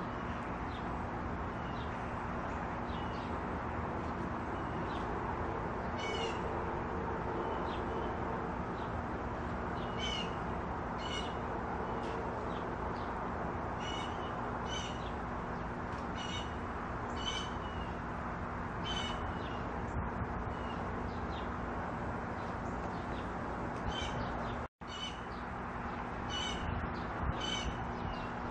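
Small birds chirping: short high chirps, one every second or two, over a steady hiss and low hum. The sound cuts out for a moment about three-quarters of the way through.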